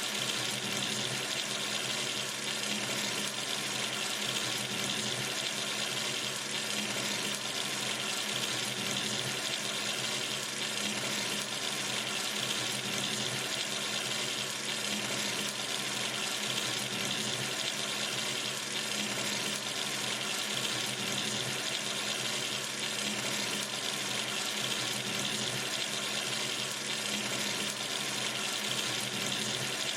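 Water running steadily from a sink tap: a constant even hiss with no changes.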